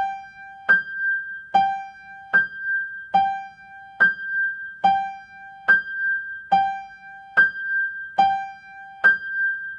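Keyboard playing a steady two-note 'do, do' ostinato in piano tone: the same note alternating low and high an octave apart, about one note every 0.8 seconds, each note ringing and fading before the next. It is the repeating accompaniment over which the melody is sung silently in the head (audiated).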